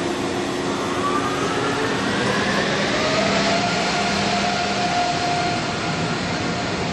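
A train coming through the station, a steady loud rush of wheels on rail with a few thin tones that rise in pitch and then hold.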